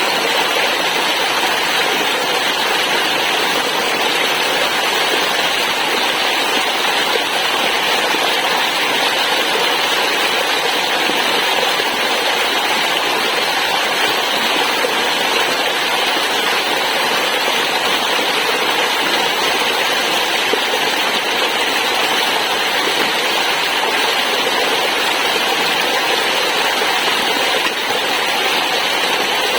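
Waterfall with rushing water: a steady, even roar without change.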